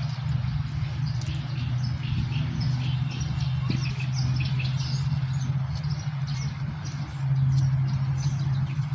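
Small birds chirping in quick, scattered calls over a steady low mechanical hum.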